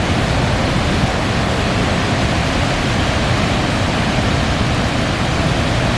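Niagara Falls water rushing and pouring over the falls, a loud, steady roar.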